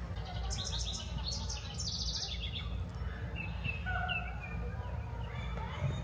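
Songbirds singing: a fast, high trilling phrase in the first couple of seconds, then a few short, scattered chirps, over a steady low background rumble.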